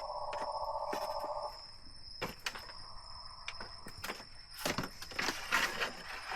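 Irregular sharp knocks and clicks, as of bamboo or wood being handled, over a steady high-pitched drone. A buzzing hum runs through the first second and a half.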